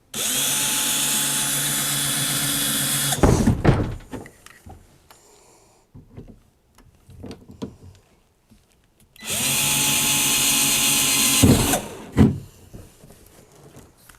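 Power drill running at a steady speed for about three seconds, then again for about two seconds near the end, boring holes through a kayak hull for mounting brackets. Light knocks and handling clicks come between the two runs.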